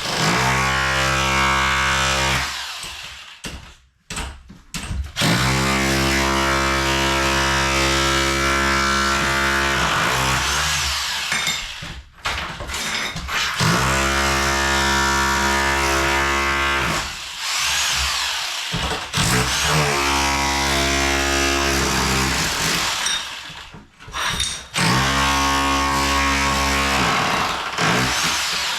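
Bosch Bulldog Max SDS Plus rotary hammer with a tile chisel hammering, breaking up floor tile and cement board. It runs in bursts of a few seconds with short pauses between, about five times.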